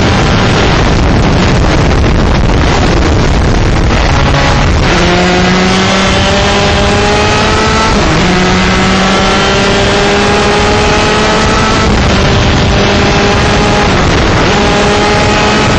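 125cc two-stroke shifter kart engine accelerating hard through the gears: its pitch climbs steadily in long sweeps and drops sharply at each upshift, three times, over a heavy rush of wind and engine noise.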